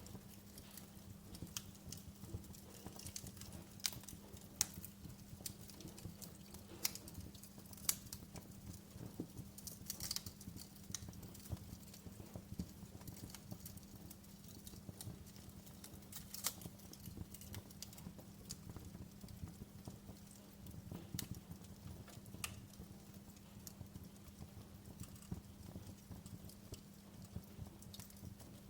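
Wood fire crackling: irregular sharp pops and snaps, a few louder than the rest, over a steady low hum.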